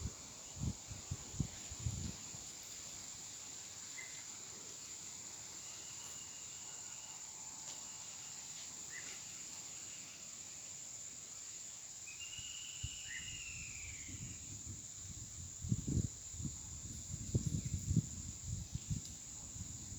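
Steady high-pitched insect chorus, such as crickets, with a few short bird calls scattered through it. Low thumps come in the first two seconds and again in a cluster near the end.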